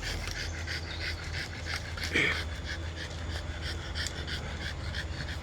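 A dog panting rapidly close by, about four quick breaths a second, over a steady low hum.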